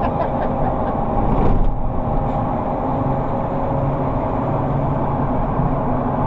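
Steady engine and road noise inside a moving vehicle's cab, with a low hum running under it.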